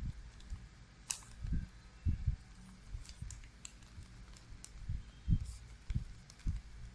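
Square of origami paper being folded and creased by hand: faint crinkles and clicks with several soft thumps of handling.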